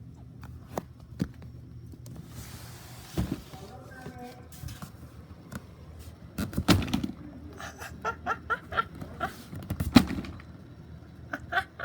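A skipping CD: the playback breaks into short, stuttering snatches of voice and music, cut apart by sharp clicks, with some fragments repeating in quick succession.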